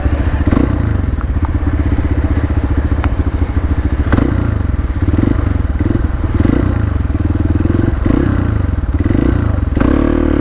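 Hero Xpulse 200 single-cylinder motorcycle engine running hard, its revs surging and dropping several times under throttle, with a few sharp knocks and clatter from the bike.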